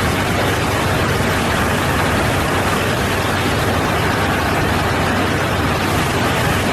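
Aircraft engine and airflow noise: a loud, steady rushing noise with a low hum underneath.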